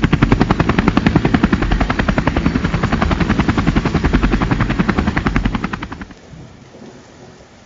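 Helicopter rotor sound effect: a fast, even chop of about seven blade beats a second, fading out about six seconds in.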